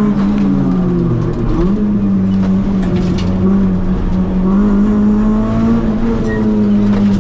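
Renault Clio RS rally car's four-cylinder engine, heard from inside the car, pulling hard. About a second in, the pitch drops for a moment and comes straight back up, then holds and slowly rises.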